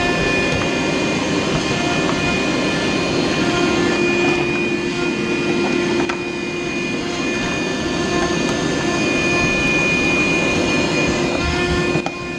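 Vacuum cleaner running steadily, sucking up built-up lint from a clogged dryer vent, its motor whine holding a constant pitch, with a slight dip in level about halfway through.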